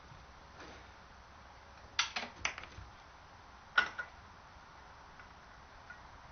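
A few sharp clicks and knocks of objects being handled: a quick cluster about two seconds in, two more near four seconds, and another at the end. There is no engine running.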